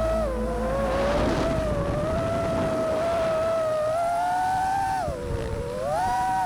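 FPV quadcopter's motors and propellers whining, the pitch rising and falling as the throttle changes, with a rush of noise about a second in.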